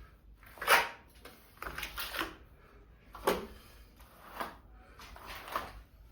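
Hand-tool renovation work: a run of short scraping and knocking strokes, about one a second, the loudest about a second in.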